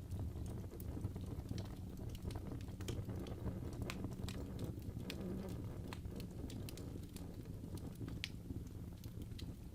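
Wood fire in a fireplace crackling, with sharp irregular pops and snaps over a low steady rumble of the flames.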